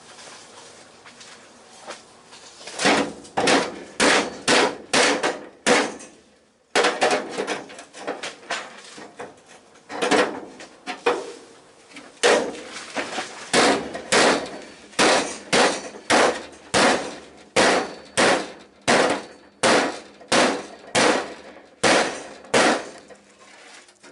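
Hammer blows on the steel sheet panel of a classic Mini's bodywork, a steady run of sharp metallic strikes about two a second with a short break about six seconds in: the panel is being knocked back to close a gap.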